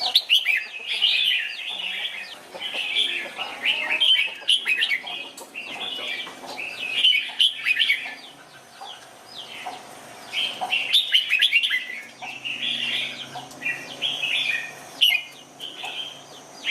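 Red-whiskered bulbul singing: bouts of quick, chirpy, warbling phrases that come again and again with short pauses between them.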